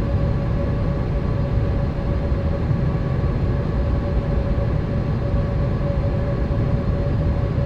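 Cabin noise aboard a Boeing 787 airliner: a steady low rush of engines and airflow with a constant hum-tone running through it.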